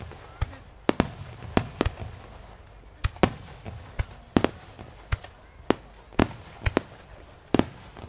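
Aerial fireworks shells bursting in a rapid, irregular series of sharp bangs, about two a second, each with a short echoing tail.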